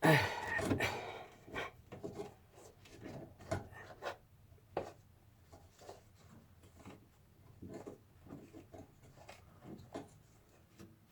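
Hands handling parts and tools at close range: a louder rush of rustling at the very start, then scattered light clicks, taps and rubbing.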